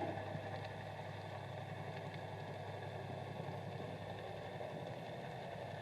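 Steady engine hum of a vessel heard underwater: a constant low drone with a ladder of higher overtones, and faint scattered clicks over it.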